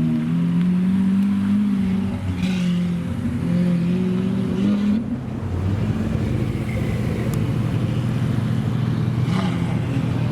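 Supercar engine running at a steady idle, its note rising and dipping slightly in the first half, then settling into a lower, even idle about halfway through.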